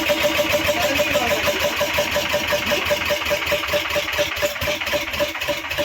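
A 10 hp diesel engine running with a steady, even firing beat, easing off slightly in loudness in the second half.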